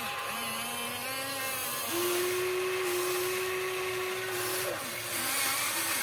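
Electric motors of a Huina 1593 RC excavator whining as its functions are worked, the pitch shifting as the motors start, stop and change speed. A louder, steady whine holds from about two seconds in and drops away near the end, followed by short glides.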